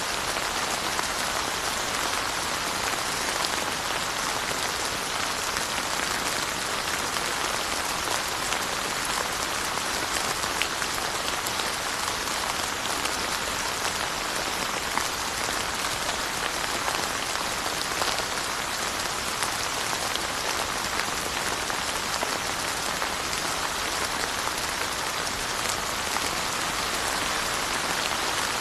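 Steady rain falling on surfaces, an even wash of sound with scattered individual drop ticks.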